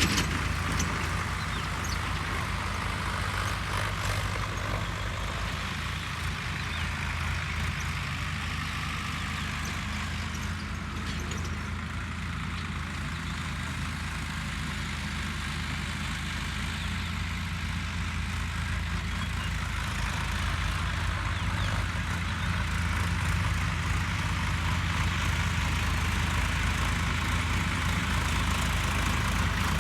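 Diesel farm tractor engine running steadily while pulling a karah to drag soil; it gets a little louder past the halfway point.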